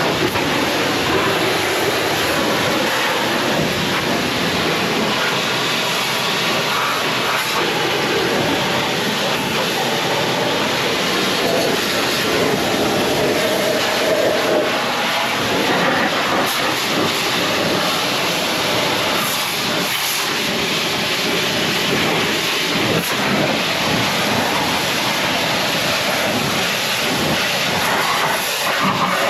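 Pressure washer spraying: a steady, loud hiss of the water jet that holds level throughout.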